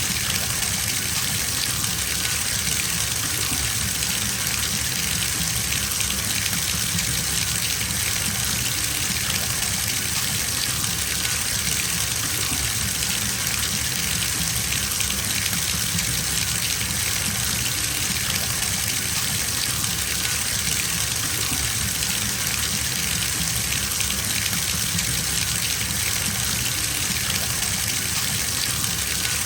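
Water running from a bathtub tap into the filling tub, a steady unbroken rush.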